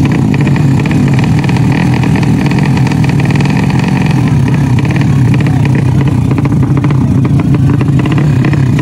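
Drag-racing underbone motorcycle engine running loudly and steadily, its rapid firing pulses unbroken.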